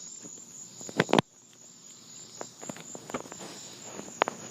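Crickets chirping steadily in the evening, with a couple of sharp clicks about a second in and light footsteps.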